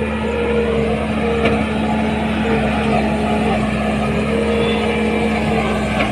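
A heavy vehicle's engine running steadily, with a constant hum and a higher tone that comes and goes.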